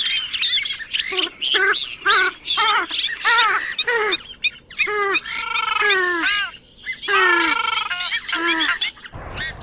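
Purple swamphen calling: a rapid series of short, nasal, downward-sliding squawks, broken by a couple of longer, drawn-out rattling calls in the middle. A low rumble of noise comes in near the end.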